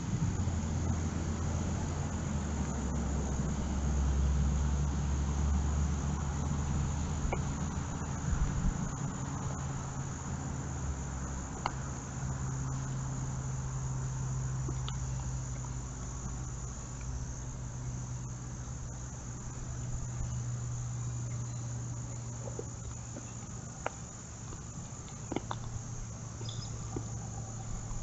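Steady high-pitched chorus of crickets, with a low hum underneath that is strongest for the first several seconds.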